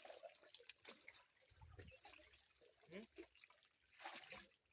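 Faint trickling and splashing of river water, with scattered small splashes and clicks.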